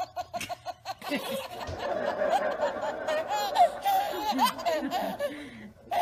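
Human laughter: a quick run of short, evenly spaced 'ha-ha' pulses for about a second, then many people laughing at once, voices overlapping, which stops shortly before the end.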